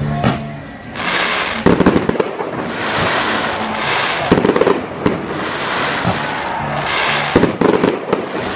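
Fireworks display: aerial shells bursting in a run of sharp bangs, with crackling and hissing between them. Music plays faintly underneath.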